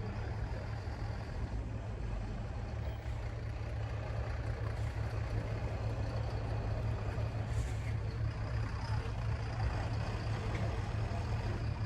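Heavy trucks driving off a ferry, their diesel engines giving a steady low rumble.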